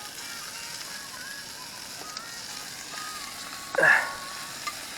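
Salted offal sizzling on a charcoal grill: a steady hiss with faint, thin whistling tones. A brief loud sweeping sound comes about four seconds in.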